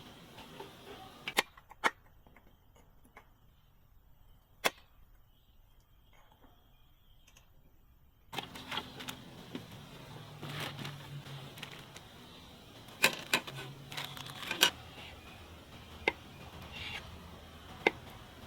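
Sharp clicks and taps, about a dozen, scattered unevenly, with several louder ones close together about two thirds of the way in. For a few seconds near the start the background goes quieter and a faint steady high tone sounds.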